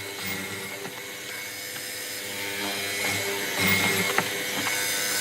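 Light mechanical clicking and rattling from workshop work over soft background music, with one sharp click about four seconds in.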